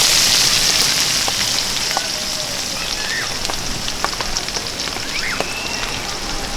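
Rain falling with many scattered drop ticks. The hiss is heaviest at first and eases over the first two seconds. A few short chirps sound over it.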